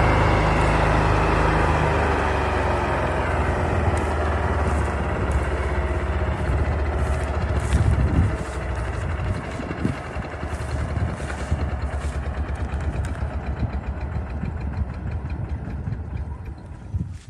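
Diesel engine of heavy farm machinery running steadily, easing down about two seconds in and gradually getting quieter.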